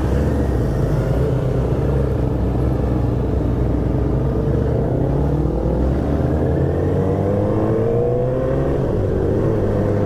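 Motorcycle engine running while riding, its pitch climbing steadily as it accelerates from about halfway through.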